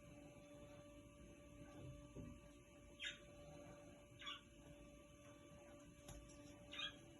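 Three faint, short bird chirps spread over a few seconds, with a steady low electrical hum underneath.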